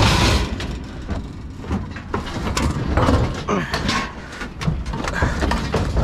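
Junk shifting, scraping and knocking underfoot as a person clambers into a loaded dumpster, with many sharp clatters and bumps, and hard breathing close to the microphone.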